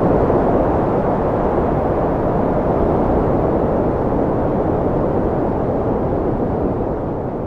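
Strong wind blowing steadily in a low rush, easing slightly near the end.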